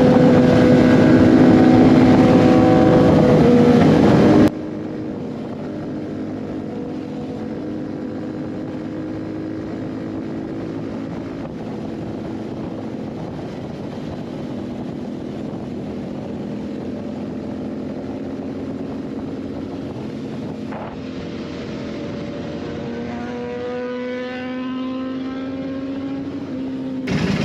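Royal Enfield Continental GT 650's parallel-twin engine running at road speed. It is loud for the first few seconds, then drops suddenly to a quieter, duller steady drone. About four seconds from the end its pitch rises as the bike accelerates.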